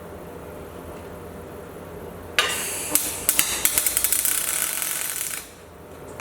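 Electric welding arc struck suddenly, crackling and sputtering for about three seconds and then broken off, over a steady low hum.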